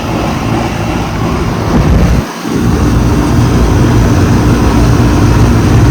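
Outdoor central air conditioner condenser unit running close up: the fan blowing air and the compressor giving a steady low hum. There is a brief drop about two seconds in, and the hum is stronger after it.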